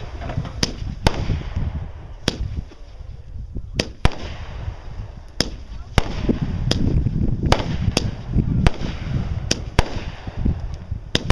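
Fireworks going off: a series of sharp bangs at irregular spacing, about one or two a second, over a low rumble.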